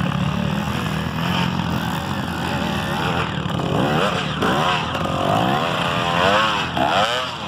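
Trail motorcycle engines: a steady low running drone, with engines revving up and down repeatedly from about four seconds in as bikes climb the slope.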